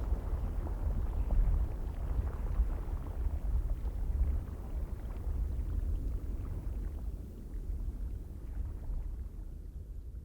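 Icelandic geyser eruption: a deep, rumbling rush of water and steam with gusts of wind on the microphone, dying away gradually over the last few seconds.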